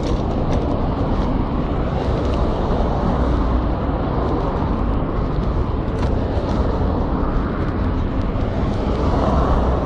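Wind buffeting the microphone of a camera carried on a moving bicycle: a steady, loud, uneven rumble, with a few faint clicks on top.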